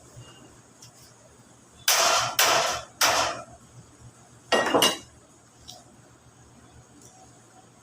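Plain sheet metal being hammered and worked by hand: three loud metallic bangs in quick succession about two seconds in, then a double bang a second or so later, each with a short ring.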